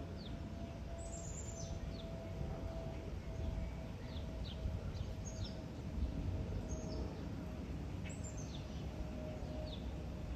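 Small birds chirping: short, high, falling notes scattered throughout, over a steady low rumble and a faint steady hum.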